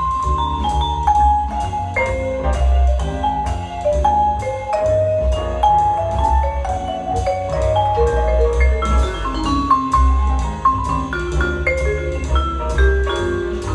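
Recorded music played through small bookshelf hi-fi speakers: a quick melody of short struck notes over a steady bass line.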